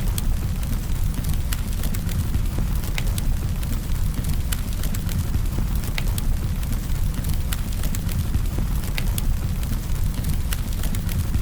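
Campfire burning: irregular sharp crackles and pops, several a second, over a steady low rumble.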